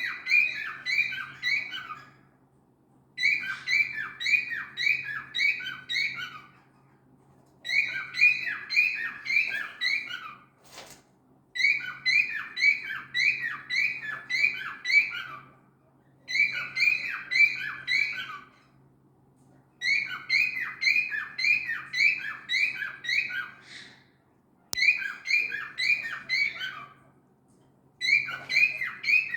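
Cockatiel calling in repeated bursts. Each burst is a run of rapid, sharp, falling chirps, about three a second, broken by pauses of about a second. The calls repeat over and over in the insistent way that wakes a household.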